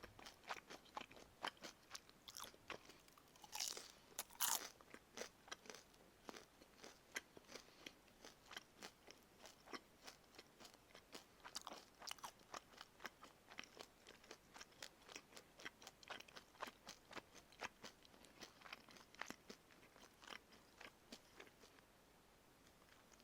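Close-miked crunchy chewing of karaage, Japanese fried chicken: the crisp fried coating crackling in quick strokes, several a second, with a couple of louder crunching bites about four seconds in.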